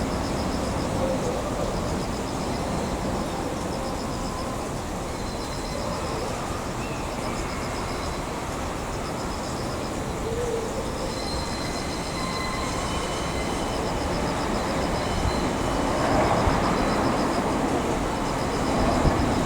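Railway cars rolling slowly through a depot yard: a steady rumble with faint thin wheel squeals. Over it, a high pulsing chirp repeats every second or two.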